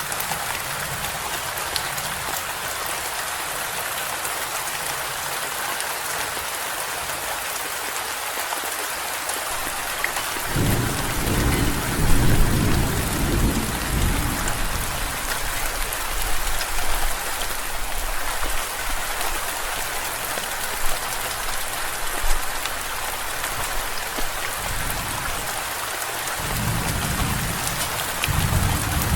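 Steady heavy rain falling, with a deep roll of thunder starting about a third of the way in and lasting several seconds, and another roll of thunder near the end.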